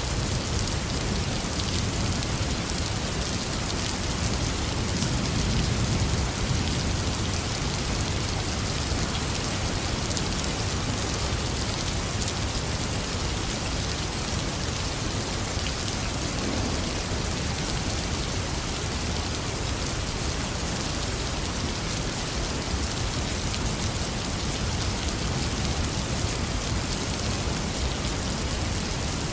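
Heavy rain falling steadily, with a low rumble of thunder swelling about four to six seconds in.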